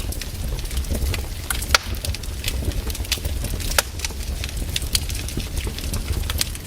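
Wood fire crackling in a fireplace: irregular sharp pops and snaps, two louder ones about two and four seconds in, over a steady low rumble of the flames.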